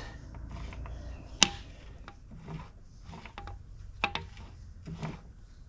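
Scattered light metallic clicks and taps as a stuck valve lifter in a DeSoto Hemi V8 block is worked up and down in its bore to free it, the sharpest click about a second and a half in.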